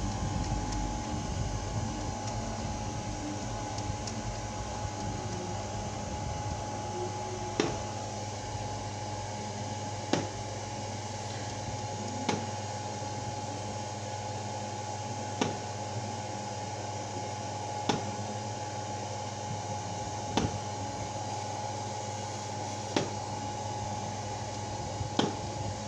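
Sharp single bangs of distant fireworks about every two and a half seconds, over a steady mechanical hum like an air conditioner or fan.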